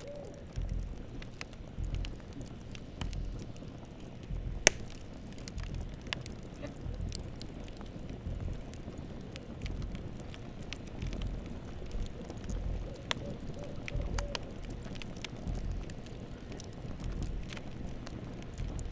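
Campfire crackling, with scattered snaps and pops and one sharp, loud pop about five seconds in, over a low rumble that swells and fades. An owl hoots faintly a few times about two-thirds of the way through.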